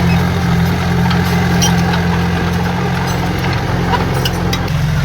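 Heavy diesel engine of earthmoving equipment running steadily, with a few light clicks over it.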